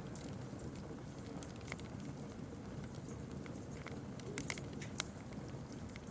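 Campfire crackling: scattered sharp snaps and pops over a low, steady rush of burning, with a few louder pops about four and a half and five seconds in.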